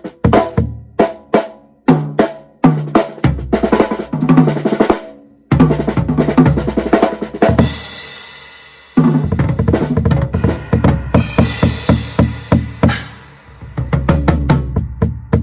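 Drum kit played in grooves and fills, its bass drum a 16-inch floor tom converted with a hole cut in the head. About eight seconds in, a cymbal crash rings out and dies away in a short break, then the playing starts again.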